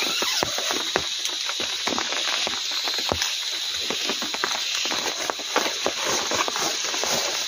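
Heavy rain falling, with dense, irregular drop hits pattering on surfaces close by.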